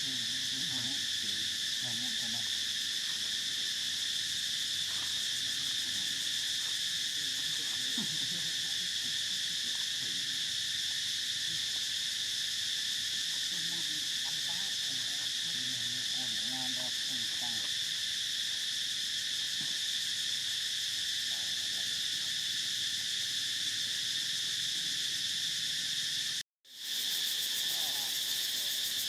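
Steady, high-pitched chorus of insects buzzing without a break. It cuts out for a moment near the end.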